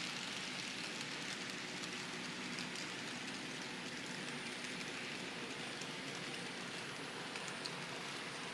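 N scale model train running on the layout's track: a steady fine rattling hiss of small wheels and motor, speckled with tiny clicks.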